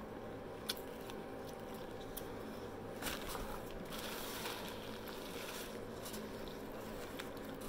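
Close-up eating sounds of someone chewing a fried onion ring, soft and wet with a few small clicks. A paper napkin rustles briefly against the mouth about three to four seconds in.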